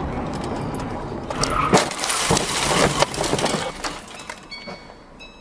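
Vehicle collision recorded by a dashcam: a loud crash with breaking glass starting about a second and a half in and lasting about two seconds.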